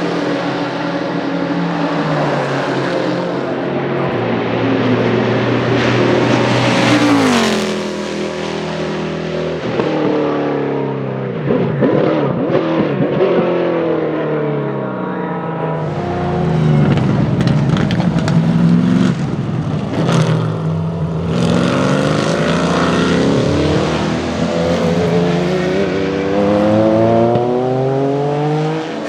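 Saleen S7-R GT1's 7.0-litre naturally aspirated V8 racing engine at full song, its pitch rising and dropping several times as it revs through the gears and passes by.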